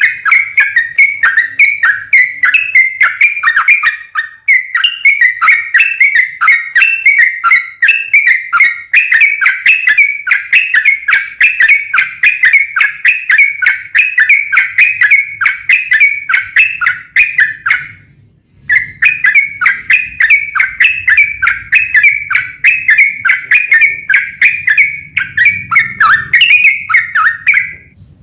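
Yellow-vented bulbul (trucuk) singing a long, fast run of short whistled notes with barely a pause between them. The song breaks off briefly about four seconds in and again about eighteen seconds in.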